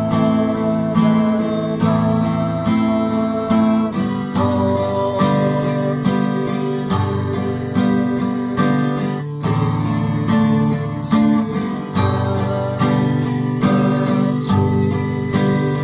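Acoustic guitar strummed steadily, about three strokes a second, with the chords changing every second or so.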